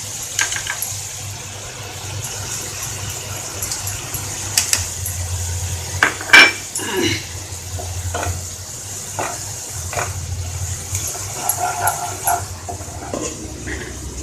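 A metal spoon knocking and scraping against a cooking pan in irregular clinks while masala is stirred, with one louder clank about six seconds in.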